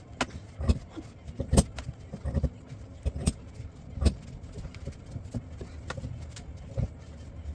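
A series of irregular sharp knocks and clicks, about a dozen, some with a low thud, the loudest about a second and a half in and about four seconds in.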